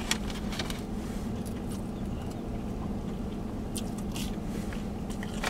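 A person biting and chewing food, with a few small clicks, over a steady low hum in a truck cabin.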